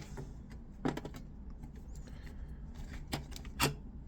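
Sharp clicks and knocks from handling a boxed set of stubby cobalt drill bits, three of them: one about a second in and two close together near the end.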